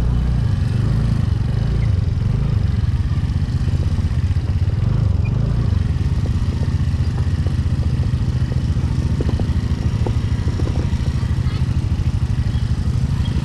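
Motorcycle engine running steadily while riding, a continuous low drone, with a few light rattles about two-thirds of the way through.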